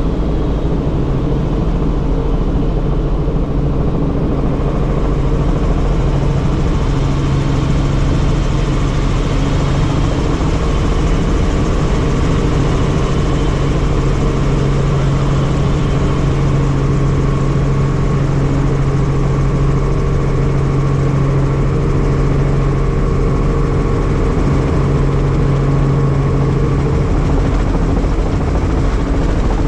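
Helicopter in flight, its engine and rotor making a loud, steady drone with a low hum that holds its pitch.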